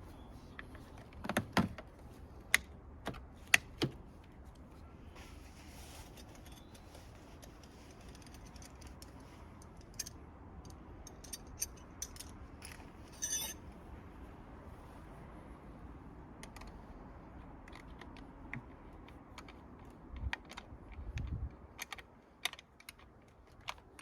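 Scattered sharp clicks and metallic clinks of hand tools and metal parts being handled during a car battery replacement, with a quick rattle about halfway through and a few duller knocks near the end.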